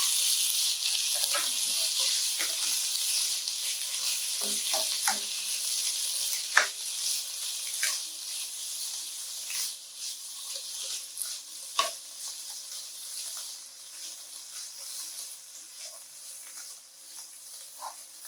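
Raw broccoli sizzling as it stir-fries in a pan, with occasional clacks of the stirring utensil against the pan. The sizzle is strongest at first and gradually dies down.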